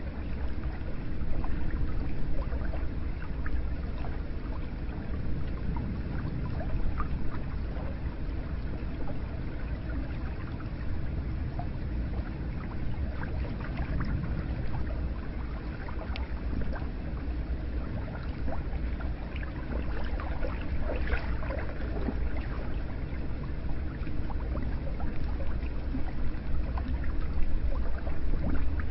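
Hot-spring water running and pouring into a bath: a steady wash of flowing water with scattered small drips and splashes.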